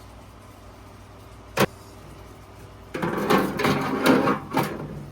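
A single sharp metal knock, then about two seconds of scraping and clunking with several knocks as an HVAC blower motor is worked into its sheet-metal housing.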